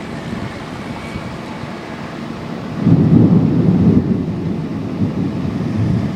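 Thunder rumbling, swelling about three seconds in and dying away over a couple of seconds, over a steady hiss of light rain.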